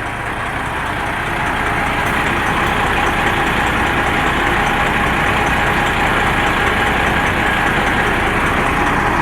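Heavy truck's diesel engine running steadily, growing slightly louder over the first two seconds and then holding.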